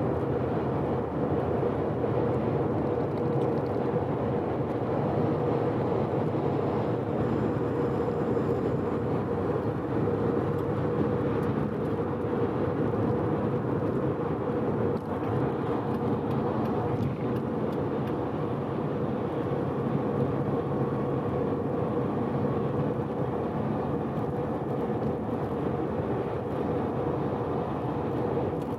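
Mazda FD3S RX-7's 13B twin-turbo rotary engine running steadily at expressway cruising speed, a constant drone over road noise. The engine is freshly rebuilt and being run in.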